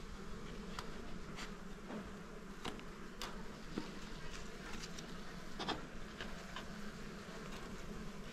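Small honeybees buzzing in a steady hum around their disturbed comb as the honey is taken, with scattered light clicks.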